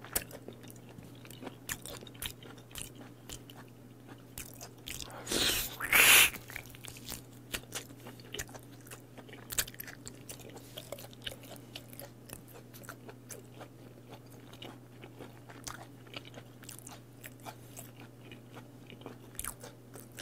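Close-miked chewing of chewy raw beef: many small wet clicks and smacks of the mouth. About five seconds in there is one louder noisy sound that lasts about a second.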